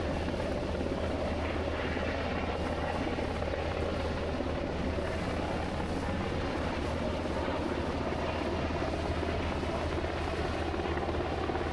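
A steady engine drone with a deep low hum and a wash of noise over it, even throughout with no sudden events.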